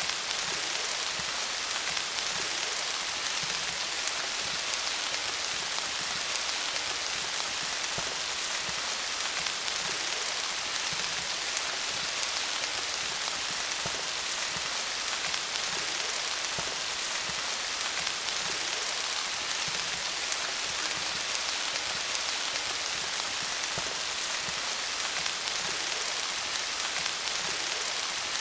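Steady rain falling on leaves, a dense even patter of many small drop hits.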